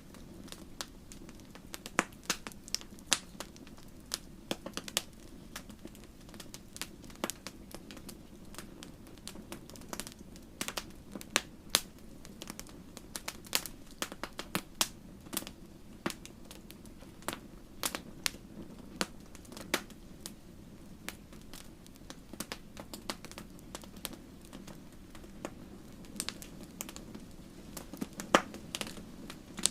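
Fire in a fireplace crackling, with irregular sharp pops and snaps, several a second at times, over a steady low hum of the flames.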